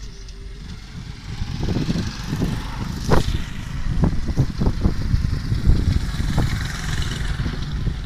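Vehicle running with a steady low rumble, a sharp bang about three seconds in, then several more knocks and clattering with a hissing scrape: the sounds of a road crash.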